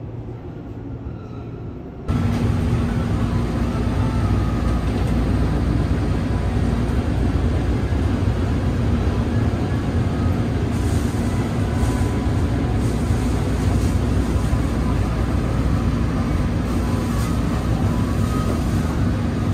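Steady rumble and hum inside a Rokumon restaurant train car. It starts abruptly about two seconds in, after a brief quieter stretch of station platform ambience.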